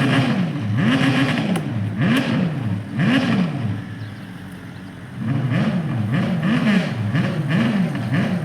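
Tractor engine being revved again and again, its pitch rising and falling about once a second. It drops back briefly about halfway through, then picks up with quicker blips of the throttle.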